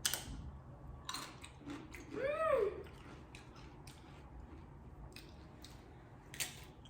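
Chips dipped in salsa being bitten and chewed close to the microphone: a series of short crunches. About two seconds in, a hummed "mmm" rises and falls in pitch, the sound of enjoying the bite.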